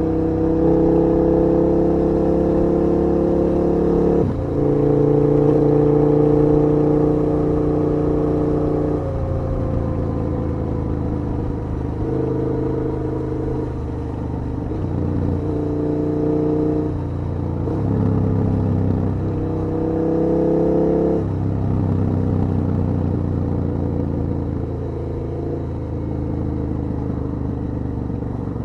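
KTM 1290 R's V-twin engine running under way, heard from the rider's seat. It holds steady revs for a few seconds at a time, with sudden steps in pitch between stretches, and runs softer after about two-thirds of the way through.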